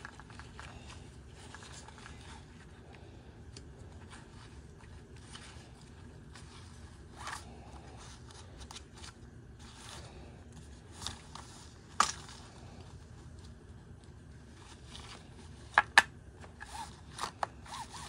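Plastic string-trimmer head and spool being turned by hand to wind on trimmer line: faint rubbing and scraping with scattered small clicks, one sharp click about twelve seconds in and several more clicks near the end.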